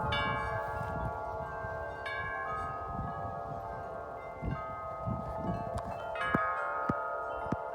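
Several large tuned metal wind chimes ringing in strong wind, deep and high tubes struck again and again and their tones hanging over one another, with wind rumbling on the microphone underneath.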